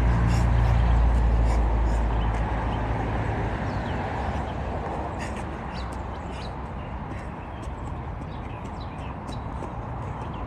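Outdoor background: a low rumble that fades away over the first few seconds, then steady background noise with many short high chirps and clicks.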